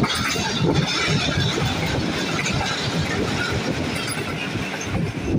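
Passenger train coach running at speed, heard from its window: a steady rush of wheel and track noise with a low, uneven rumbling clatter of the wheels on the rails.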